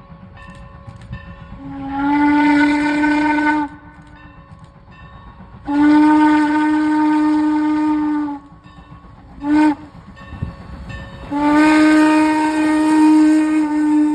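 Steam locomotive 475's whistle sounding the grade-crossing signal: two long blasts, a short one, then a final long blast. Under it a low steady rumble of the train.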